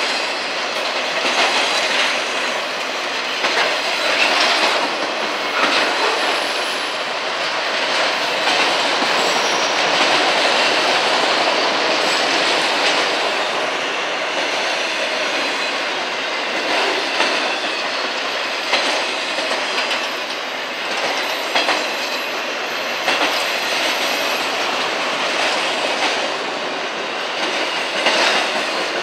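Freight train of enclosed autorack cars rolling past close by: a steady rush of steel wheels on the rails, broken by irregular clicks as the wheels cross rail joints.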